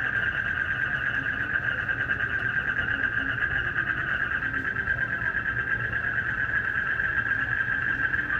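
Continuous night chorus of crickets and frogs: a steady, fast-pulsing trill that never breaks.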